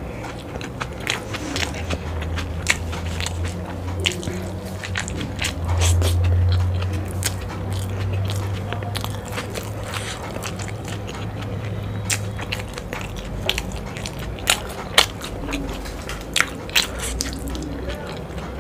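Close-miked chewing of chilli momos, steamed dumplings in a thick chilli sauce: wet, squishy mouth sounds with frequent sharp smacks and clicks. A low rumble runs under it for the first two-thirds, strongest about six seconds in.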